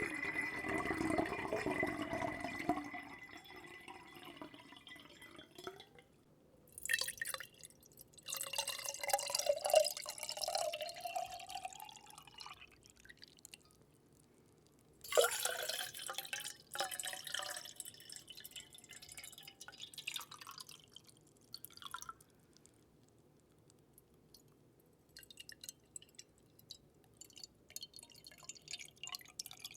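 Water dripping and splashing close to a microphone, in several bursts a few seconds long, with a slowly rising tone through one long pour about a third of the way in. Scattered single drips follow near the end.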